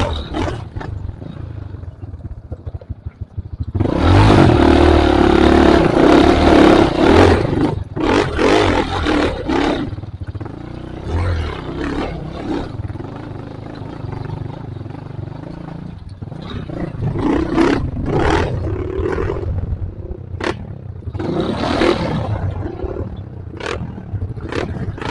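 Trail motorcycle engine revving hard under load on an offroad climb. It is loudest from about four to ten seconds in, eases off, then rises again near the end, with knocks and clatter over rough ground.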